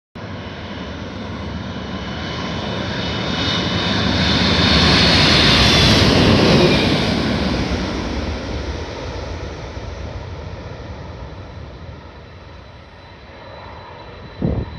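Jet airliner passing low overhead on its landing approach. Engine noise with a high whine swells to a peak about six seconds in, then fades slowly as the plane goes past. A short thump near the end.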